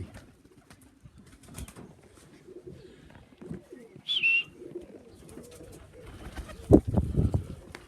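Pigeons cooing at the loft, low repeated calls throughout. A short high chirp comes about four seconds in, and a few loud knocks come near the end.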